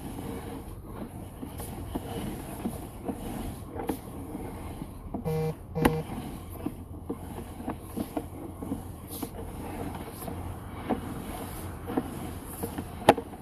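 Sewer inspection camera's push-rod cable being pulled back through the line, giving irregular small clicks and knocks over a low rumble. Two short beeps sound about five and a half seconds in, and a sharper click comes near the end.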